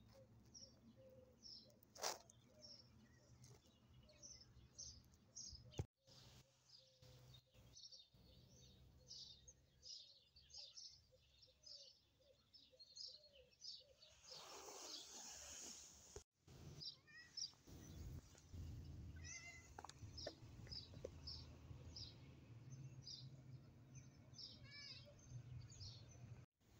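Faint chirping of small birds, many short high chirps again and again, with a sharp click about two seconds in and a brief rustling burst about halfway through.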